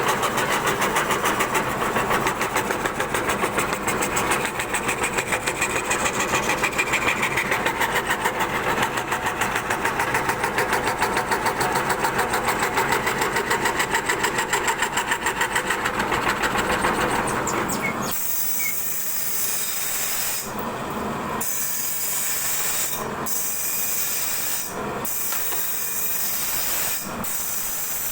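CNC wood-carving router running, with a fast pulsing throb. About two-thirds of the way through the sound changes abruptly to a steady hiss broken by several brief dips.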